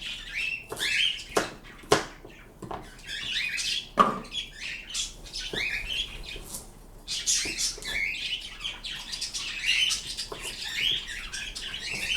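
Pet birds chirping and squawking over and over in quick, pitch-sliding calls, with two sharp knocks about two and four seconds in.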